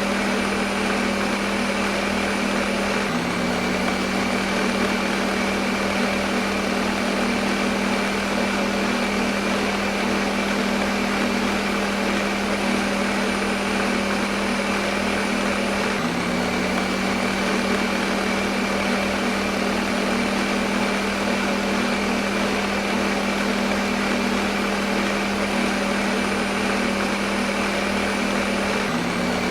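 Electric kitchen blender motor running continuously with a steady whirring hum and a whoosh. Its pitch dips briefly about every 13 seconds.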